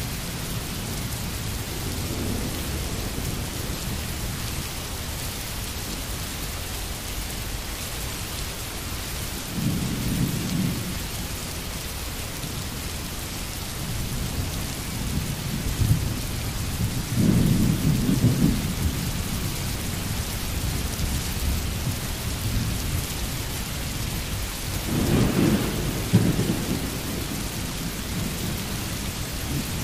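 Steady rain hissing, with low rolling rumbles of distant thunder swelling up three times: about a third of the way in, just past the middle, and near the end.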